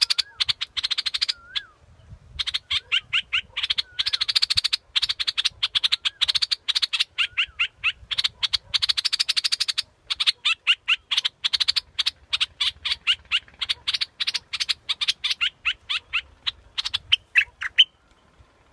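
Bulbul call, played as a decoy recording: fast chattering runs of sharp notes mixed with short rising whistled notes, in bursts with brief pauses. It stops abruptly near the end.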